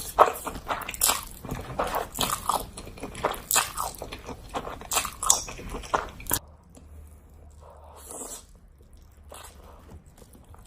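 Close-miked crunchy eating: rapid crisp bites and crunching chews for about the first six seconds, then quieter, softer chewing.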